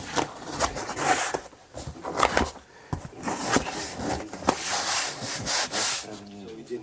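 Irregular scraping and rubbing with scattered knocks, from a filled cardboard parcel box being handled and closed up.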